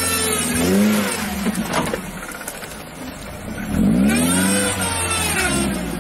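Lifted Suzuki Jimny's engine revving hard off-road as it crawls over ruts, its pitch rising and falling in repeated bursts. It eases off in the middle, then gives a long rev up and back down, and starts climbing again near the end.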